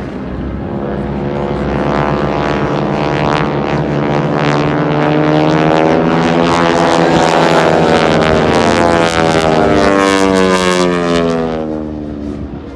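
Formation of AT-6 Texan warbirds flying past with their radial engines and propellers at full power. The sound swells, holds loud, then fades near the end, and the pitch slides down as they go by. It has the distinctive snap of the propeller tips reaching the speed of sound.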